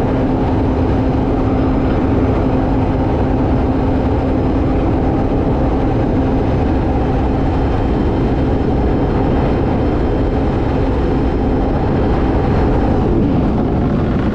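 Kawasaki Ultra 310 jet ski's supercharged four-cylinder engine running flat out on a top-speed run, one steady unchanging note. It holds about 8,000 rpm without pulling back, because the reflashed ECU has the speed restriction turned off.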